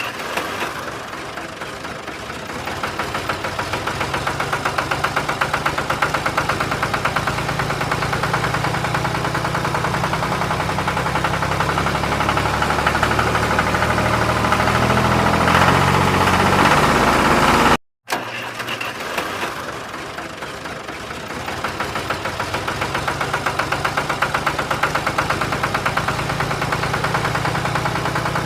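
Tractor engine running with a steady rhythmic beat. It cuts off abruptly about two-thirds of the way through, then starts running again.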